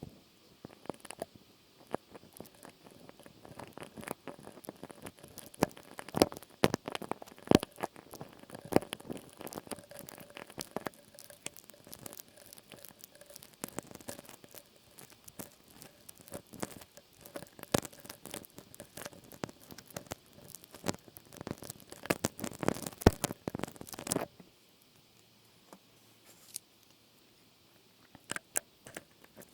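Close-miked ASMR trigger sounds: dense, rapid crackling and clicking that stops abruptly about 24 seconds in, followed by a few scattered clicks.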